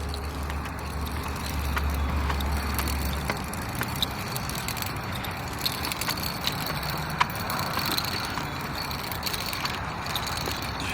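A truck rolling slowly as it is pushed by hand: a steady low rumble for the first three seconds or so, then an even hiss of rolling noise with scattered small clicks.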